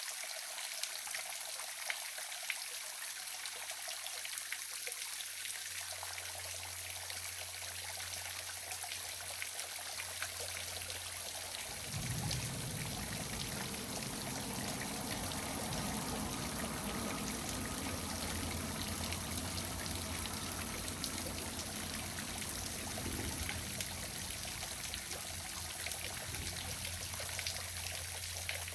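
Small waterfall: steady splashing and trickling water. A deeper rush joins about twelve seconds in.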